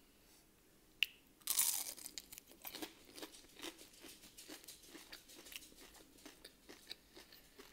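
Close-up eating of a breaded chicken strip: one loud crunchy bite about a second and a half in, then chewing with many small crunches and mouth clicks.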